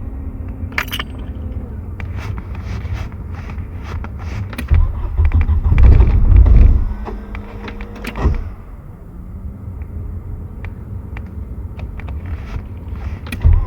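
A car engine running with a steady low rumble in freezing cold. It gets louder for a couple of seconds about five seconds in and again briefly near eight seconds, with scattered clicks and knocks over it.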